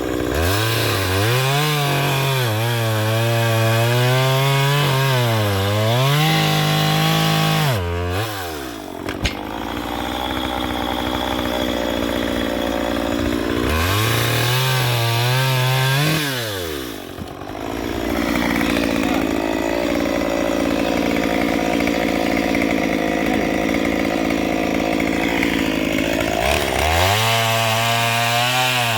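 Two-stroke chainsaw running at high revs and cutting through a log, the engine speed rising and falling repeatedly as it works, with two brief drops in speed.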